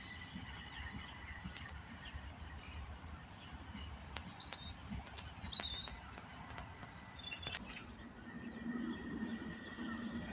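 Quiet railway-side ambience: a low, steady distant rumble from a departing electric train, with a faint high whine and a few short bird chirps in the middle.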